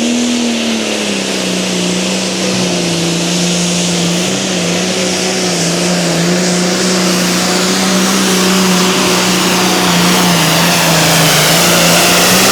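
Pulling vehicle's engine held at high revs under full load as it drags the sled. Its note rises briefly just after the start, then holds steady and grows slowly louder toward the end.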